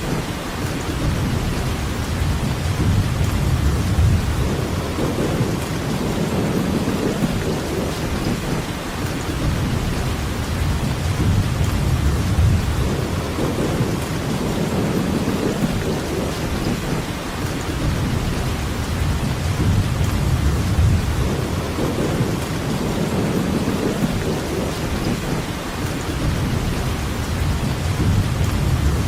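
Steady rainfall with a deep low rumble underneath that swells and fades every few seconds.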